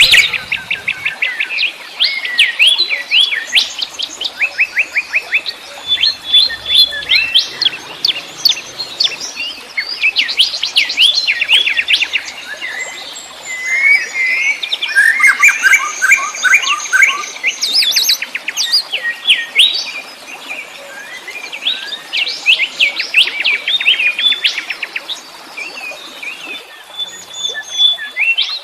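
Several wild songbirds singing and chirping together, with rapid trills and quick repeated whistled notes overlapping throughout.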